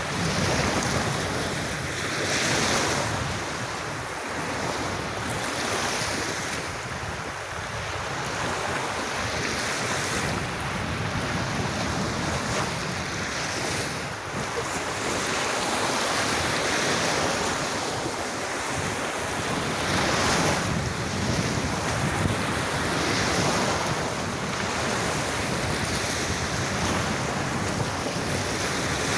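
Gentle sea waves breaking and washing up on a sandy beach: a steady wash of surf that swells and eases every few seconds.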